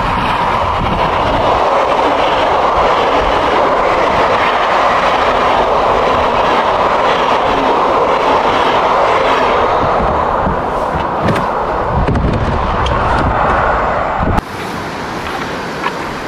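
Passenger train passing close by along a station platform, a loud steady rush of wheels on rails. About fourteen seconds in, it cuts off suddenly to the quieter rush of river rapids.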